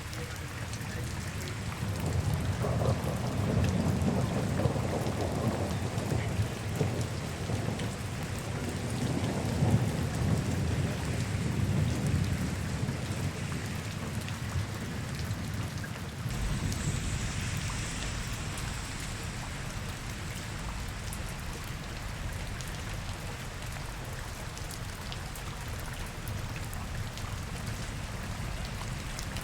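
Steady rain falling on city streets. A long low rumble swells up about two seconds in and fades out after about ten seconds.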